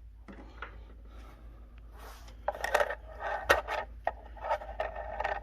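Hands handling and scraping small metal workshop parts, rubbing with repeated scrapes and a few sharp clicks, the loudest click about three and a half seconds in.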